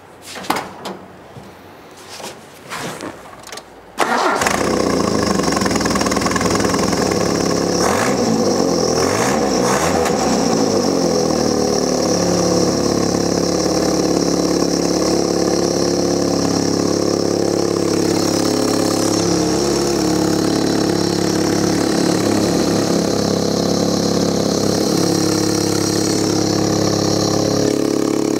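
1977 Toyota Celica TA22's four-cylinder engine starting. After a few short sounds it catches suddenly about four seconds in, revs up and down briefly, then settles into a steady idle.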